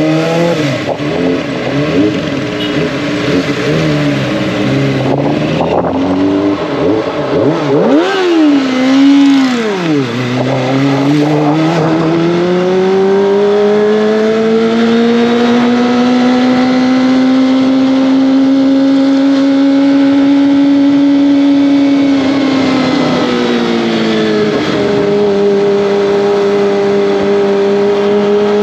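Kawasaki ZX-25R's 250 cc inline-four engine and exhaust on the move. About a third of the way in, the revs rise and fall sharply. The engine then pulls steadily up in pitch and holds high for several seconds, before dropping to a lower steady note near the end.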